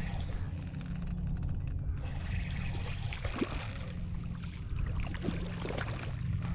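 Steady low wind rumble on the microphone over open water, with a few small splashes and knocks in the middle seconds.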